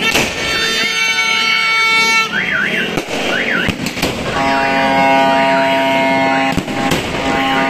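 Aerial fireworks going off, with several sharp bangs: near the start, around three and four seconds in, and a few close together near the end. Under the bangs run long, steady horn tones and a repeating rising-and-falling wail.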